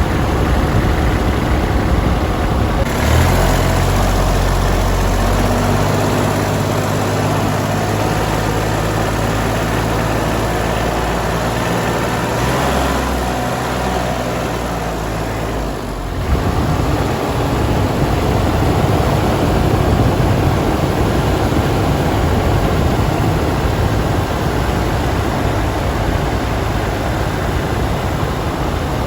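Tractor engine running steadily at idle. Its sound changes about 16 seconds in, from a steady low hum to a rougher, noisier run.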